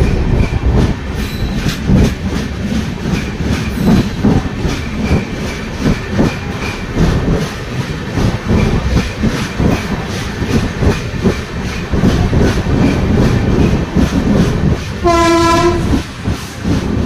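Passenger train running fast through a rail tunnel, heard from an open coach door: a loud, steady rumble with rapid clattering of wheels over the rails. Near the end a train horn sounds once for about a second.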